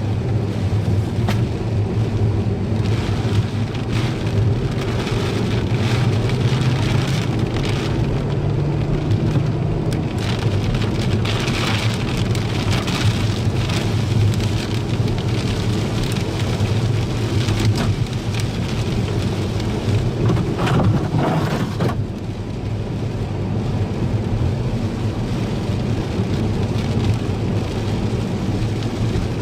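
Steady heavy rain during a thunderstorm, with a constant low hum underneath; the hiss of the rain eases a little about three quarters of the way through.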